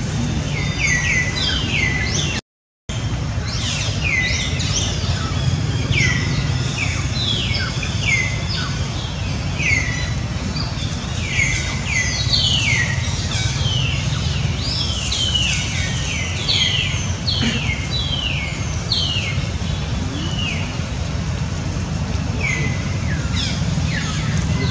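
Birds chirping: many short, quick downward-sweeping chirps, sometimes overlapping, over a steady low rumble of background noise. A brief cut to silence comes about two and a half seconds in.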